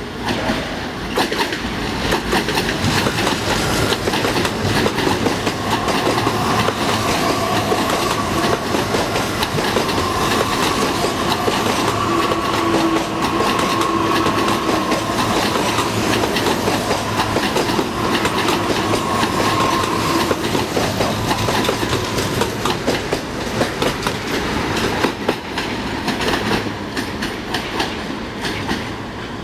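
EG2Tv electric multiple unit's wheels clattering over rail joints in a dense run of clicks, with a faint steady whine through the middle. The clatter comes up sharply at the start and eases near the end.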